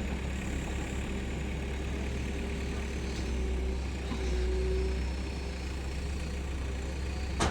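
Heavy diesel engines of earth-moving machines running steadily, swelling a little about halfway through, with a single sharp knock near the end.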